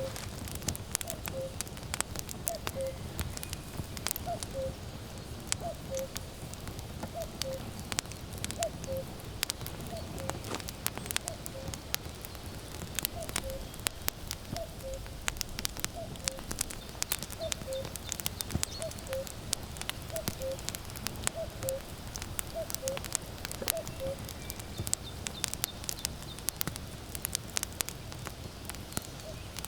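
Wood fire crackling with frequent sharp snaps and pops, while a common cuckoo calls its falling two-note "cu-ckoo" over and over, about every second and a half, falling silent near the end.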